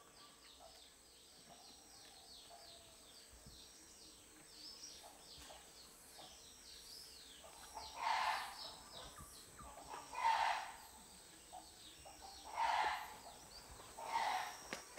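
Birds calling: a steady run of quick, high, down-slurred chirps, then four louder calls about two seconds apart in the second half.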